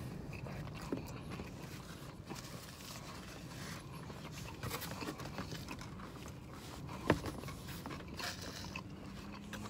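A person chewing a mouthful of BBQ chicken pizza, faint crunching and chewing sounds, with one sharp click about seven seconds in.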